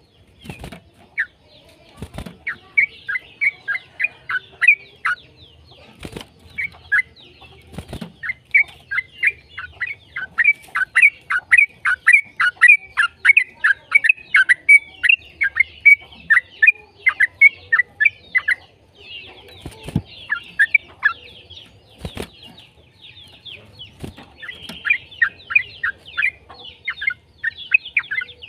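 Yellow-vented bulbul (trucukan) singing a long, rapid chattering song of quick falling notes, in runs broken by short pauses. There are a few sharp clicks.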